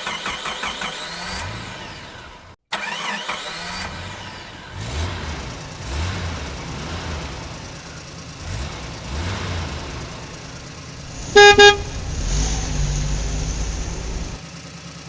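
Vehicle engine sounds, rising in pitch twice early on, then a low pulsing engine; about two-thirds through, a horn gives two short loud beeps, followed by a low rumble.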